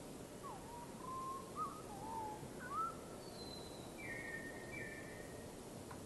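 A bird whistling: a run of short, sliding whistled notes, then a single higher thin note and two flat, level whistles near the end.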